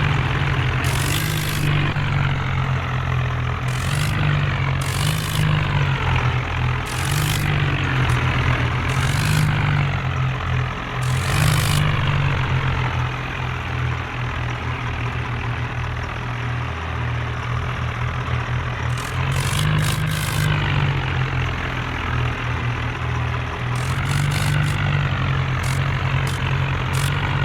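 Tractor engine running steadily with a deep hum whose pitch wavers up and down, with short bursts of hiss every few seconds.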